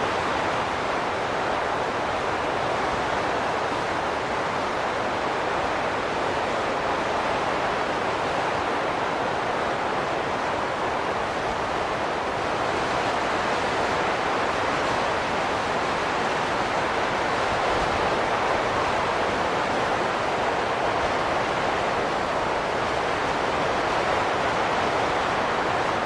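Wind blowing steadily, an even rush of noise with slow, slight swells and no gusts or breaks.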